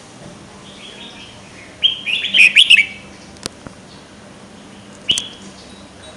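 A songbird singing a quick burst of chirping phrases about two seconds in, then one short call near the end, with a single light click in between.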